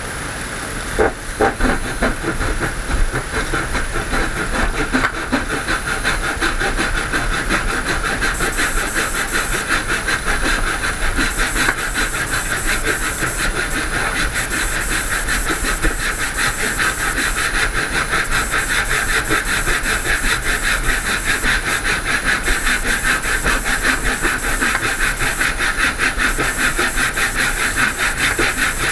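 Woodworking power tool running steadily under load, with a fast, even chatter; a few sharp knocks in the first few seconds.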